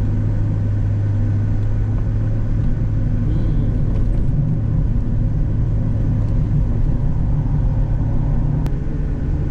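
Mazda Roadster RF's four-cylinder engine running steadily while cruising, a constant low drone with road noise under it.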